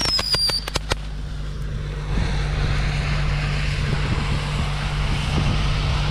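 Fireworks crackling with a short falling whistle in the first second, then the Infiniti G37's V6 engine running at a steady speed under a hiss that grows louder about two seconds in.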